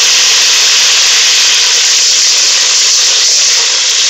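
Fresh mint leaves sizzling in hot oil with whole spices: a loud, steady hiss.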